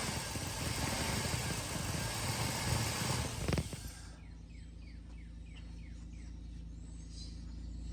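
Chevrolet Silverado engine with a newly installed Airaid cold air intake, easing down after a rev and then idling steadily with a low, even hum. A sharp knock comes about three and a half seconds in, and a bird chirps several times in quick succession over the idle.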